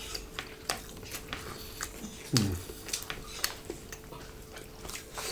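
Cutlery and dishes clinking during a meal: scattered light clicks and taps of utensils on plates and bowls, with a short falling vocal sound a little over two seconds in.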